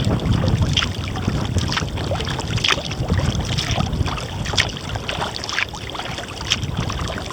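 Kayak paddling: short splashes and drips of the paddle blades in the water, coming irregularly, over a low rumble of wind on the microphone.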